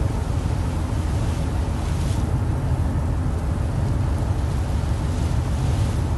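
Wind buffeting the microphone over open sea, a steady low rumble with the rush of seawater, which swells briefly about two seconds in and again near the end.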